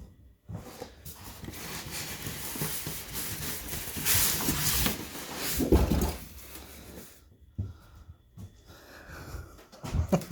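Cardboard and plastic packaging being handled and pulled about. There is a scraping, rustling noise that is loudest about four seconds in, with a couple of dull knocks near six seconds.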